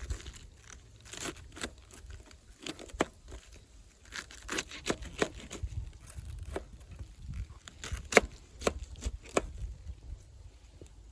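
Wood campfire crackling, with irregular sharp snaps and pops, the loudest about eight seconds in, over a low steady rumble.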